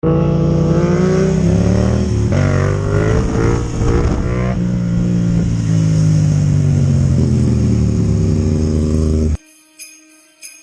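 Yamaha MT-07's parallel-twin engine under hard acceleration for a wheelie, the revs rising and falling several times, loud. It cuts off abruptly near the end, and faint music with chimes follows.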